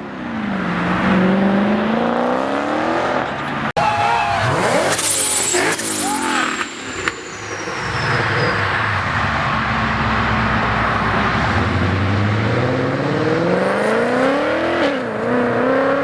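Car engines revving hard as cars pull out, the pitch climbing and falling with each rev and then climbing steadily near the end. There is an abrupt break about four seconds in.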